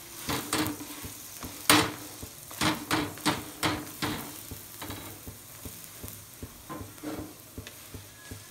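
Chapati sizzling on a hot tawa as a flat spatula presses and scrapes it. There is a run of short scraping strokes over a steady sizzle, the loudest about two seconds in, and the strokes grow sparser and fainter after about four seconds.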